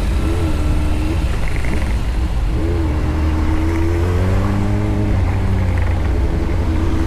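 Motorcycle engine running under way with a heavy, steady rumble of road and wind noise; the engine note climbs slowly through the middle, then drops.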